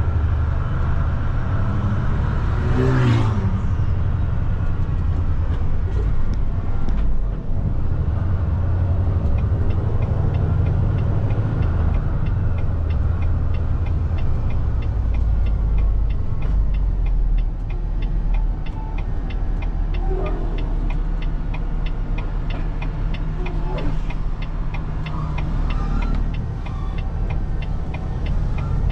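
Semi truck's diesel engine running steadily as heard from inside the cab, with a brief rising whine about three seconds in and an even, regular ticking through the second half.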